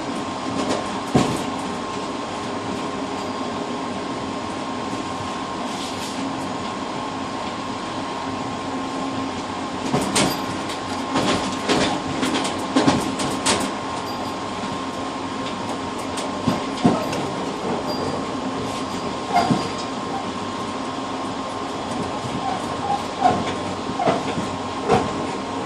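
Passenger train running, heard from inside the rear cab vestibule of its tail car. A steady rumble carries an even hum, broken by sharp knocks from the wheels on the track: a quick run of them about ten seconds in, then single knocks spaced a second or so apart near the end.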